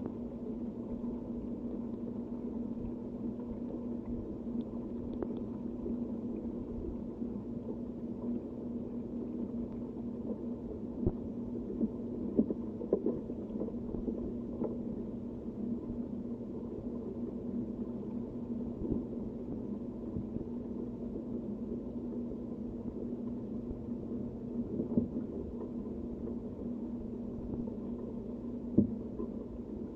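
Steady low rumble of wind and rain with a constant low hum underneath. Scattered sharp taps fall now and then, a few of them louder, clustered about twelve seconds in and again near the end.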